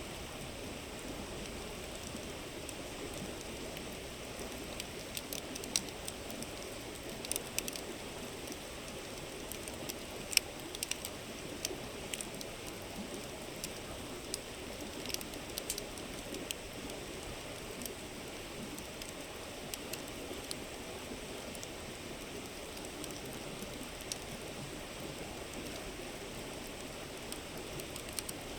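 Steady rush of a river with a wood campfire crackling over it: scattered sharp pops, thickest in the first half, the loudest about a third of the way in.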